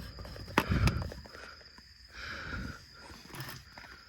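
Knocking and scraping of a tool breaking out the ceramic honeycomb inside a catalytic converter: a sharp knock about half a second in, then quieter scrapes and small taps.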